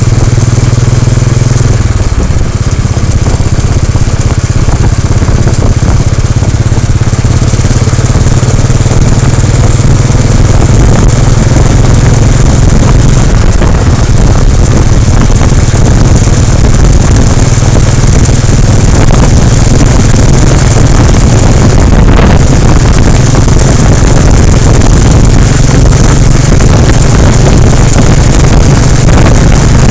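Royal Enfield Bullet 350's single-cylinder engine running steadily on the move, its low engine note shifting about two seconds in. Heavy noise from recording on a cellphone lies over it.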